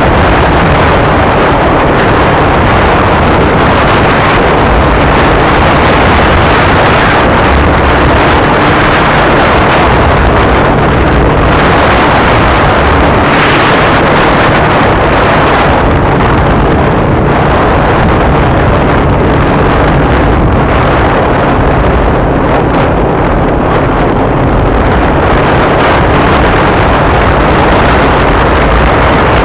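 Kawasaki Ninja 250R's parallel-twin engine running on the move, mostly buried under a loud, steady rush of wind on the camera microphone.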